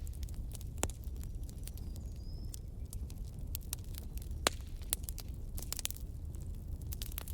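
Wood fire crackling in a fireplace: irregular sharp pops and snaps over a low steady rumble, the loudest pop about four and a half seconds in, with a faint brief whistle about two seconds in.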